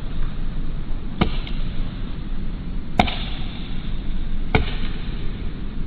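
Woodpecker pecking into tree wood, three sharp single knocks about a second and a half apart, over a steady low rumble.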